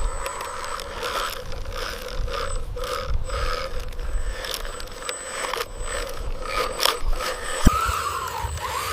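Small radio-controlled construction machine working: its gears and moving parts click, rattle and scrape, pulsing about twice a second, over a thin steady high whine.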